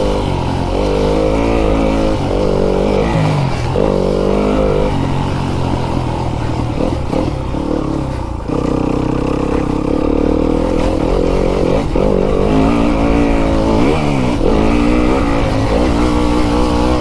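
Fantic enduro dirt bike's engine revving up and down as it is ridden, its pitch rising and falling with throttle and gear changes. The revs drop briefly about halfway through, then climb again.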